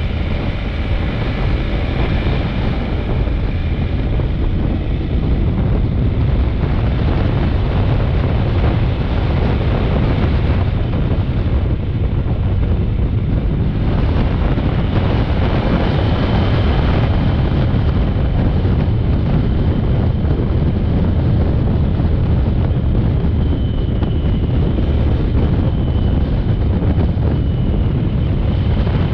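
Steady wind rushing over the microphone while riding a Honda NC750X motorcycle, with its parallel-twin engine running underneath.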